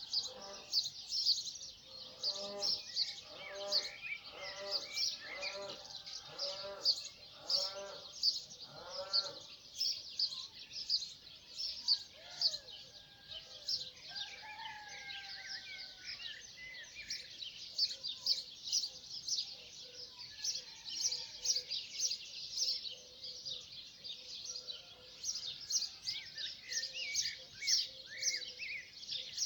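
Chorus of many birds chirping and twittering. From about two to nine seconds in, an animal gives a series of about seven harsh, pitched calls, roughly one a second, and later a few gliding whistled notes stand out.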